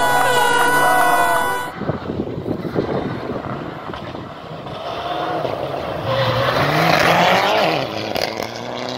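Steady pitched tones, like music or horns, stop abruptly about two seconds in. A rally car's engine takes over at full throttle, its note rising through the middle and dropping back near the end, over loud road and tyre noise.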